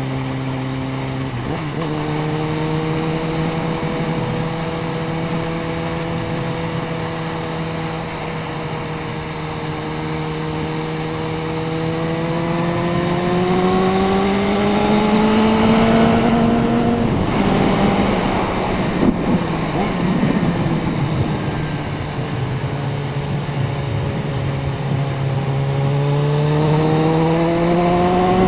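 Suzuki Bandit 650N inline-four motorcycle engine running under way, its pitch holding steady and then climbing slowly as the bike accelerates. Partway through the pitch line breaks into a rush of noise for a couple of seconds, then the engine comes back lower and climbs again near the end.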